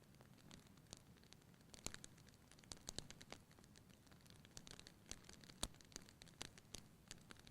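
Wood fire in a fireplace crackling: irregular sharp pops and snaps, the loudest about five and a half seconds in, over a faint low rush of the flames.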